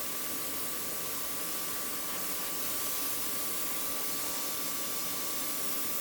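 Steady hiss of rushing compressed air, with a faint high whine held throughout.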